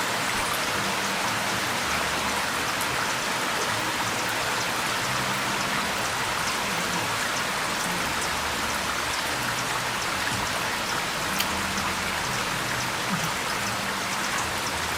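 Heavy rain falling steadily, a dense even patter of raindrops on surfaces.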